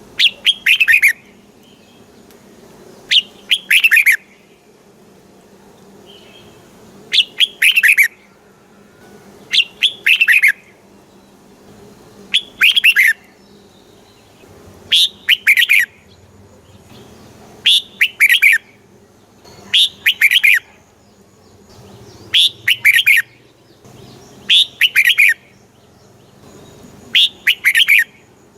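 Red-whiskered bulbul song: a loud, short warbled phrase of about a second, often in two parts, repeated about every two to two and a half seconds.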